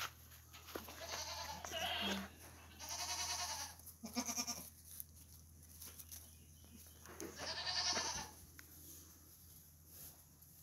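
Goats bleating, about four calls: two close together about a second in, a short one around four seconds, and a longer one near eight seconds.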